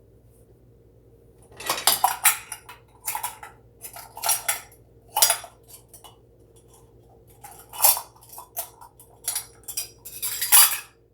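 Kitchen utensils clinking and scraping against dishes in a series of short irregular bursts, as spoons or measuring cups knock against a mixing bowl. Two of the bursts, about two seconds in and near the end, are louder and longer scrapes.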